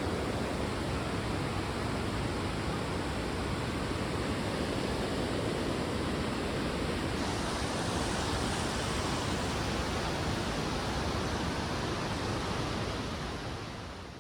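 A steady, even rushing noise with no words over it. Its hiss shifts slightly about halfway through, and it fades out near the end.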